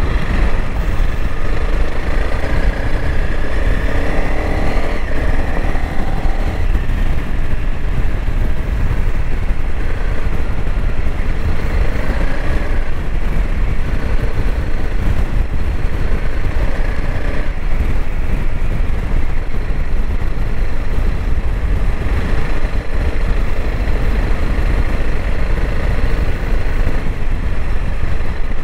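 Honda CRF300L Rally's single-cylinder four-stroke engine running steadily while the motorcycle is ridden, its pitch shifting a little with the throttle, over a constant low rumble.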